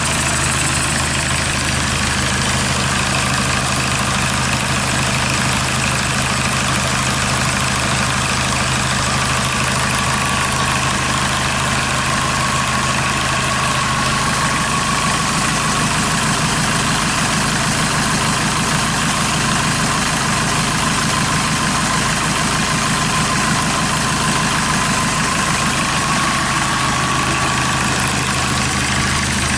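Kia D4CB 2.5-litre four-cylinder common-rail turbodiesel idling steadily on a test run outside the car. There is a faint, slightly wavering whine over the low, even running.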